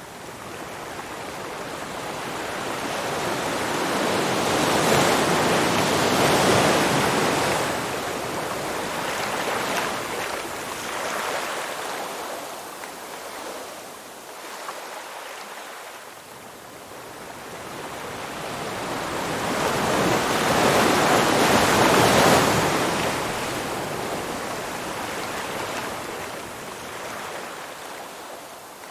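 Ocean waves washing in and drawing back, a wide rushing noise that swells twice to a loud peak and dies away between.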